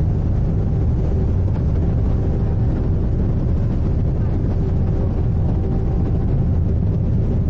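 Steady, loud low rumble of the icebreaking sightseeing ship Aurora under way, heard on board, with a faint steady hum running through it.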